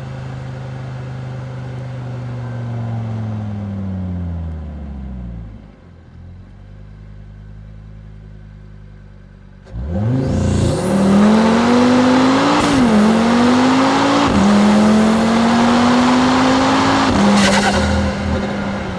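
Car engine slowing with its note falling to a low idle, then about ten seconds in a hard acceleration: revs climb, two quick upshifts, and the throttle eases off near the end.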